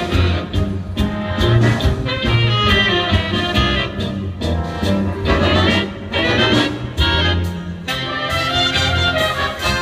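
Navy band playing jazz, led by brass over a steady beat.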